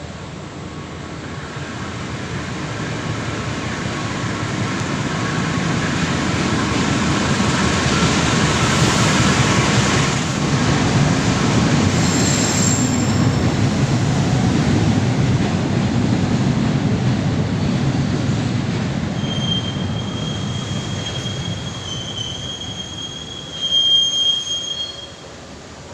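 A train passing on the rails: the rumble of its wheels builds, holds for several seconds, then fades away. In the later part, the wheels squeal with a steady high pitch, with a sharp loud burst near the end.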